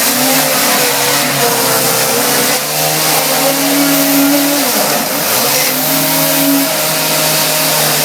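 Chainsaw running at high revs while cutting through a flimsy piece of furniture. Its pitch wavers, dips briefly about five seconds in and then climbs back.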